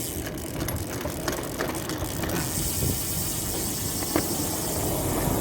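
Bicycle mechanism clicking and rattling as its brake is tested: a run of sharp ticks in the first couple of seconds and a single click later, over a steady noise.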